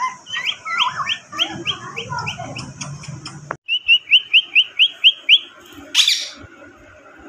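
Parrot chirping in quick runs of rising notes, about five a second, with a short break about halfway through. A brief noisy rustle follows near the end.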